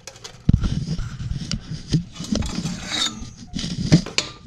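Irregular scraping and rubbing with soft knocks and clicks, starting about half a second in; the sound of handling and movement close to the microphone.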